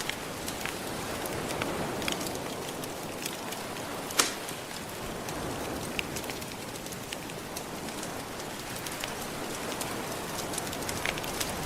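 Ocean waves washing steadily, mixed with a fireplace crackling in scattered sharp pops, one louder pop about four seconds in.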